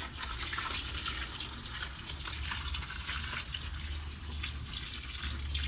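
Water running and splashing steadily as greenhouse plants are watered.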